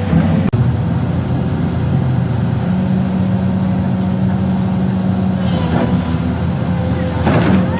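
Excavator's diesel engine running steadily, with two short rushing sounds rising over it about two-thirds of the way through and again near the end.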